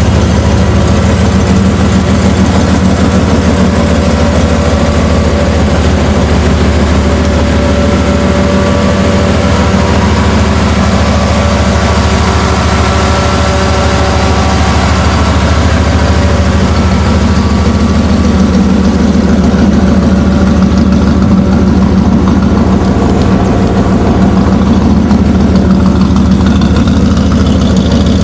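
Supercharged 5.4-litre V8 of a built Ford SVT Lightning, fitted with aftermarket cams and a Bassani full exhaust, idling steadily. The higher hiss thins out about two-thirds of the way through.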